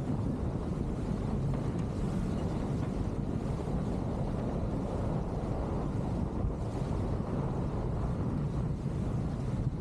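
Wind buffeting the microphone over the rush of water past the hulls of a sailing catamaran moving fast in strong wind: a steady, even rushing noise.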